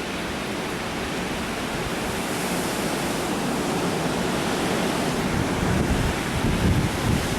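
Strong thunderstorm wind blowing in a steady rush that slowly builds. Gusts buffet the microphone from about five seconds in.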